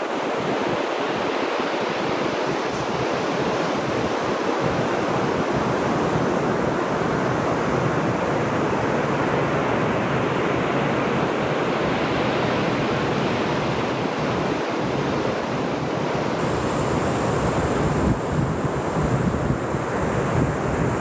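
Ocean surf washing steadily onto the beach, with wind buffeting the microphone more toward the end.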